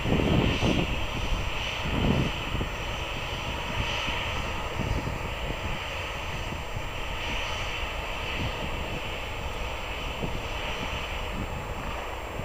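Airliner engines running as a plane passes near the runway end: a continuous rumble with a steady hiss on top, loudest in the first two seconds, then holding steady and slowly easing off.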